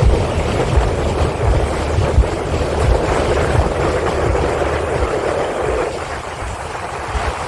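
Boat underway: its motor running under a steady rush of water, with wind buffeting the microphone in low gusts.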